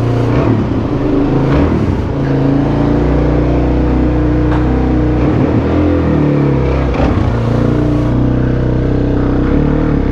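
Suzuki DR-Z400SM supermoto's single-cylinder four-stroke engine running on a cold high idle, its pitch dipping and rising a few times near the middle.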